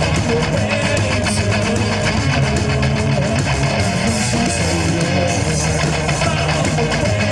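Live rock band playing an instrumental passage: distorted electric guitars strumming over bass and drums, loud and steady.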